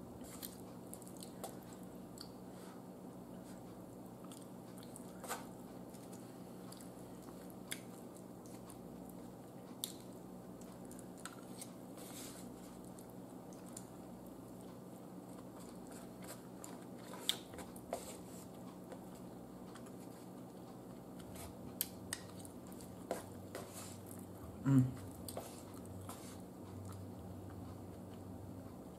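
Close-up chewing and biting sounds of someone eating roasted chicken and cabbage, with scattered sharp clicks of a metal fork on the plate. A steady low hum runs underneath, and a brief louder low sound comes near the end.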